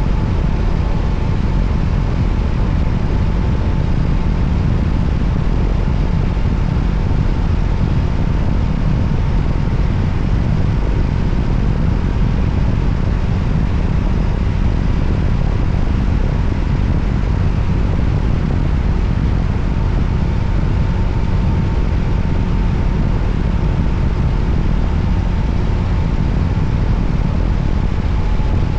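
Steady wind rush over the microphone mixed with the running of a Voge 300ACX motorcycle cruising at an even speed, heavy and low, with no gear changes or revving.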